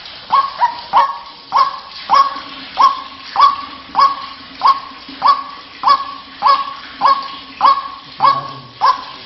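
White-breasted waterhen (ruak-ruak) call, a short sharp note repeated steadily about every 0.6 s, about fifteen times. It is a lure call used to draw ruak-ruak in rice fields.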